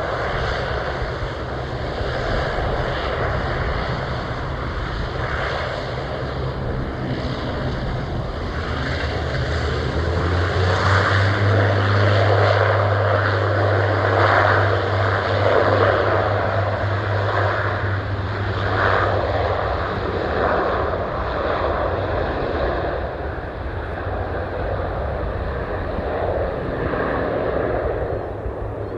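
Propeller aircraft engines running, a steady low hum with a pulsing drone above it that grows louder about a third of the way in and eases off after about twenty seconds.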